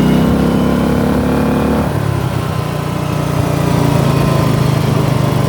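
Small engine of a Murray riding mower, modified for off-road use, running as it is driven. The engine speed drops about two seconds in, then runs steadily and picks up slightly near the end.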